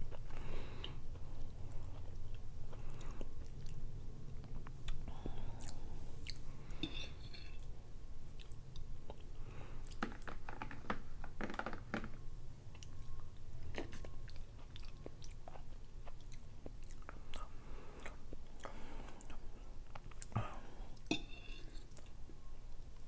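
Close-miked chewing and wet mouth sounds of someone eating rotisserie chicken, with scattered small clicks, over a low steady hum.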